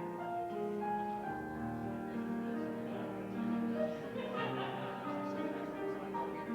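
Slow instrumental music on a keyboard instrument, held notes and chords moving at a calm, even pace.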